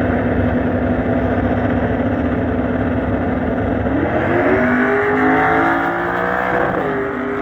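Drag cars' engines running loudly, then revving up in a rising pitch about four seconds in as a car accelerates. The pitch drops sharply near the end.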